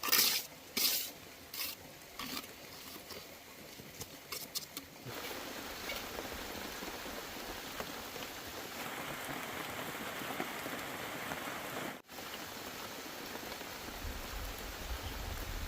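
Rain falling: a few scattered sharp taps at first, then from about five seconds in a steady patter of rain, with a low rumble near the end.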